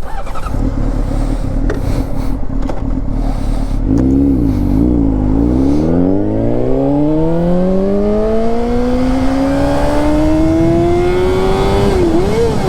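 2006 Honda CBR600RR inline-four with a Yoshimura exhaust, heard over wind rush while riding. The engine holds a steady note, dips about four seconds in, then rises steadily in pitch for about six seconds as the bike accelerates, with a brief dip near the end at a gear change.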